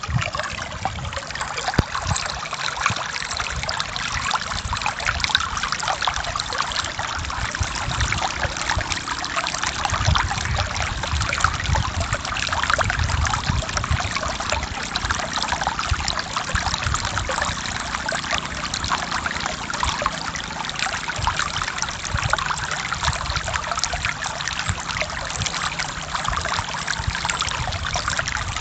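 Forest stream flowing steadily over rocks, a dense, even rush of water with bubbling and trickling.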